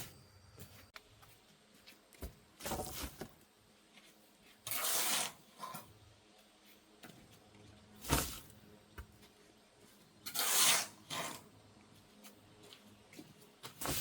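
Short scraping or rubbing sounds, about five of them a couple of seconds apart, each lasting up to about half a second.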